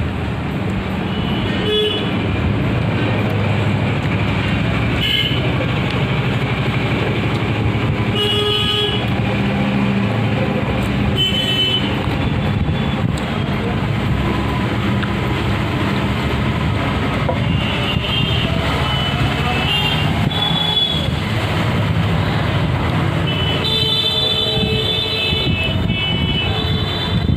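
Steady road traffic noise, with vehicle horns sounding briefly every few seconds.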